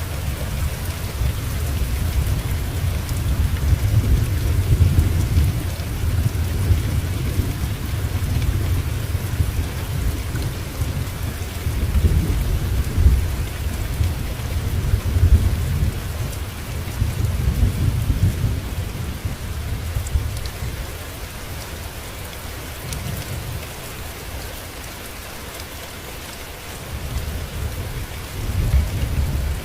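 Steady rain with low rolling thunder that swells and fades several times, strongest over the first two-thirds and again near the end.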